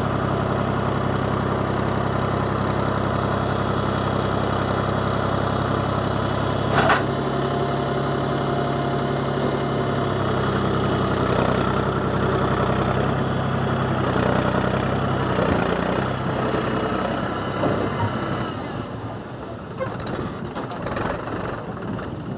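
Mahindra tractor's diesel engine running steadily, with one sharp knock about seven seconds in. The engine note then shifts and fades away near the end.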